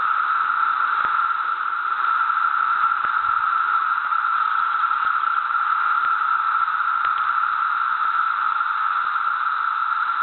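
Dense chorus of cicadas, an incessant droning held at one steady pitch.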